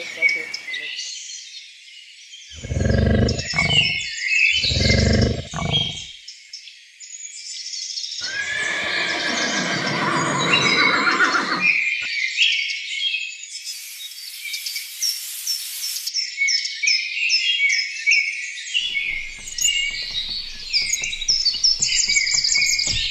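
Animal calls over continuous high-pitched chirping: two short low calls about three and five seconds in, then a longer pitched call from about eight to twelve seconds.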